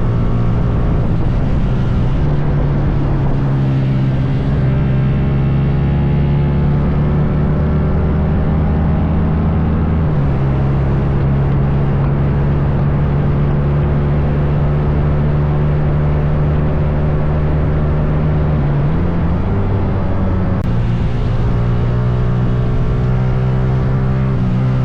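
Motorcycle engine running steadily while being ridden, its pitch shifting a few times as the revs change.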